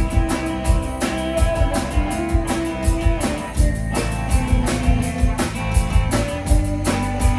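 Live rock band playing an instrumental passage: electric guitar holding sustained notes over a steady drum-kit beat.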